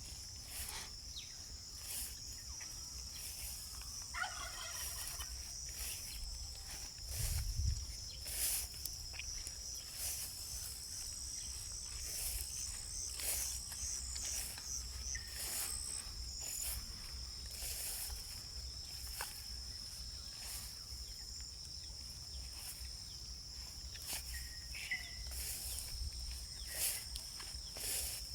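A steady high chorus of crickets and other insects, including a pulsing trill, over a low rumble of wind. A short bird call comes about four seconds in, and another near the end.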